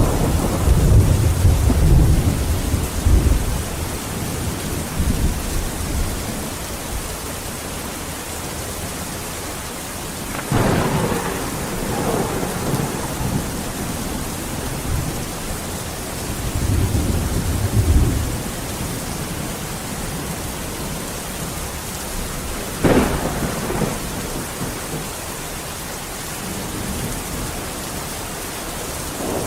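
Steady rain falling, with thunder: long low rolling rumbles near the start and again about two-thirds of the way through, and sharper claps at about 10 and 23 seconds in.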